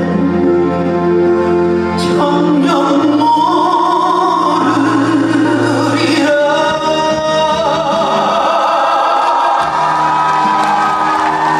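A live band plays and a male vocalist sings a trot ballad, holding long sustained notes that shift in pitch every few seconds, with the reverberation of a large hall.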